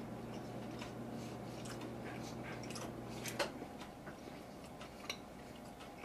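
Faint chewing of a mouthful of jelly beans, with small wet mouth clicks and smacks. A low steady background hum cuts off about three and a half seconds in, together with a sharp click, the loudest sound; another click comes about five seconds in.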